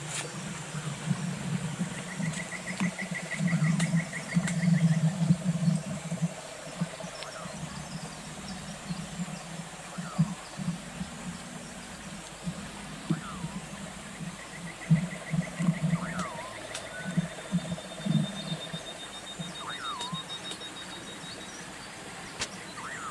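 Wild animal calls outdoors: two rattling trills, each a few seconds long and about twelve seconds apart, a thinner, higher trill near the end, and scattered short falling chirps, over irregular low bumping and rumble.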